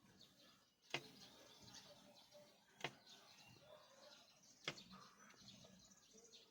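Birds chirping faintly, broken by three sharp clicks about two seconds apart.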